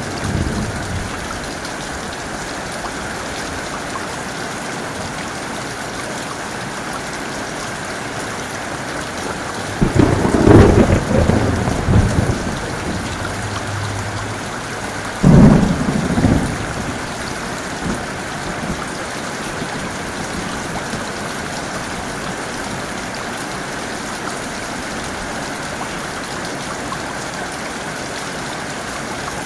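Heavy rain falling steadily, with two loud thunderclaps rumbling through it: one about a third of the way in, lasting a couple of seconds, and a sharper crack about halfway through.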